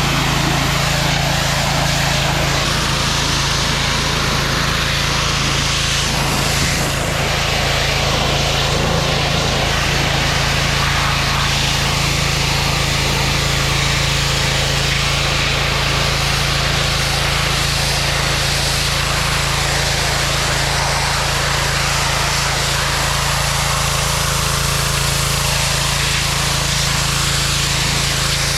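A motor-driven machine running steadily without a break: a constant low hum under a broad, even hiss.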